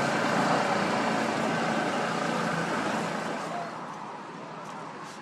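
A passing vehicle's steady rushing noise, fading away about three and a half seconds in.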